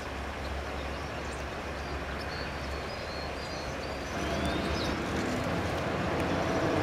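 A few short, high bird chirps over a steady rumble of background noise, likely distant traffic; the rumble gets louder about four seconds in.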